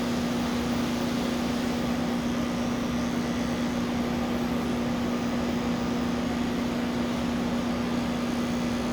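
Electric pet clippers running with a steady hum while shaving a cat's coat.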